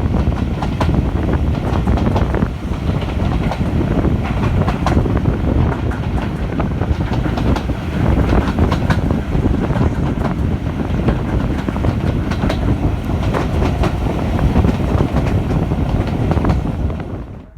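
Steam-hauled train running along the line: a steady rumble of wheels on the rails with frequent clicks over the rail joints, cutting off sharply near the end.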